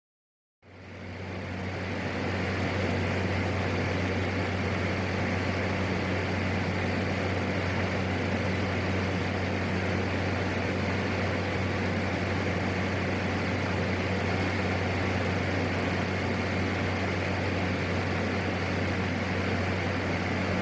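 PAC 750XL single-turboprop airplane in flight: a steady engine and propeller drone with a strong low hum, fading in over the first couple of seconds and then holding level.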